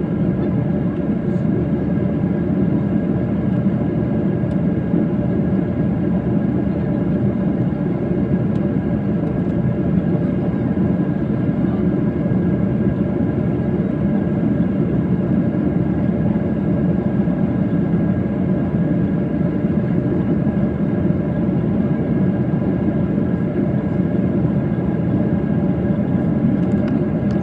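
Airplane engines and airflow making a steady drone with a faint steady whine above it, unchanging throughout.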